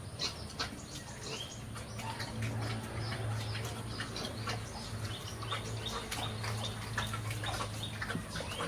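Birds chirping in quick, repeated short calls over a steady low hum.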